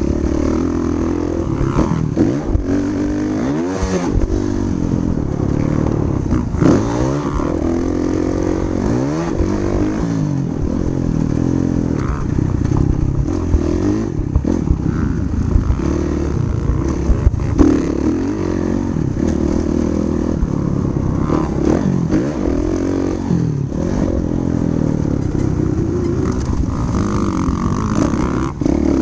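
Motocross bike engine revving up and dropping back again and again, its pitch rising and falling every second or two as the bike accelerates and slows.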